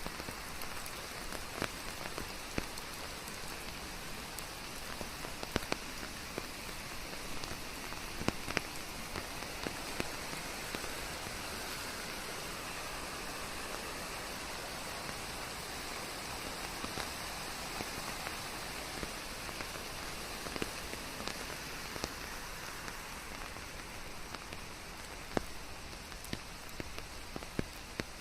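Steady rain falling, a constant hiss with the close patter of individual drops landing on leaves.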